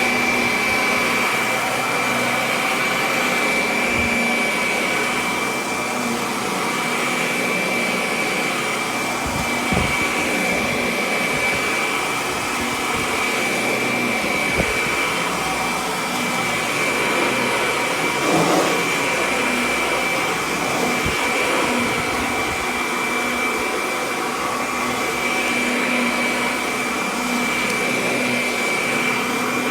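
Kirby Avalir upright vacuum cleaner running steadily while vacuuming, a constant rush of air with a high steady whine on top. A few brief low bumps come through as the machine is worked.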